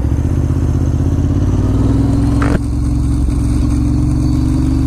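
Ducati Monster S2R 1000's air-cooled L-twin engine running at low, steady revs while creeping in slow traffic, with one brief sharp sound about halfway through.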